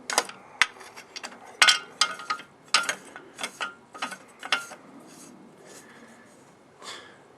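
Handling of a vintage all-metal Dayton 2Z461 chainsaw: a quick run of sharp metallic clanks and rattles, some ringing briefly, over the first four or five seconds, then one softer knock near the end.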